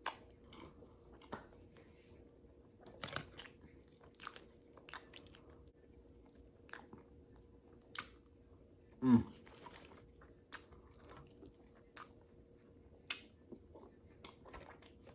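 A person eating close to the microphone: biting and chewing, with scattered soft mouth clicks and smacks, and one short hum about nine seconds in.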